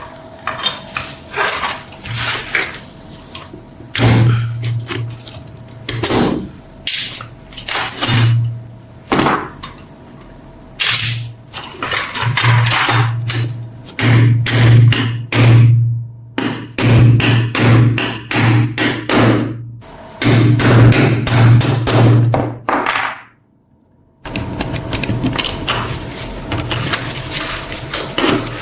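Repeated irregular hammer blows, in places several in quick succession, each with a heavy low thud. After a brief drop-out about 23 seconds in, a steady rubbing noise follows.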